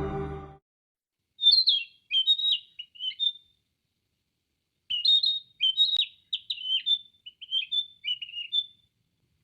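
Narcissus flycatcher singing: two phrases of quick, varied clear whistled notes, a short one and then a longer one of about four seconds.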